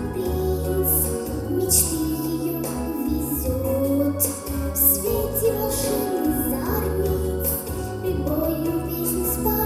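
A girl singing a song over a recorded backing track.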